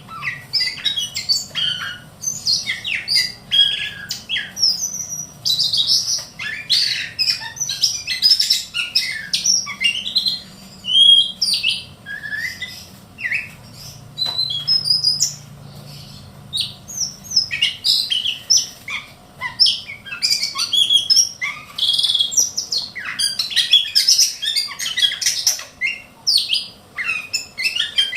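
Small whistling thrush (ciung batu kecil) singing a long, varied song of rapid chirps and sharp whistled notes, broken by short pauses.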